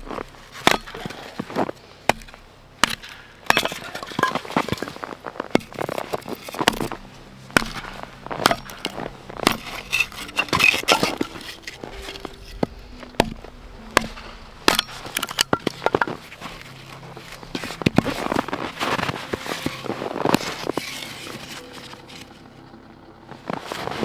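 Dry wood cracking and snapping in many irregular sharp bursts, as dry branches are broken up for firewood.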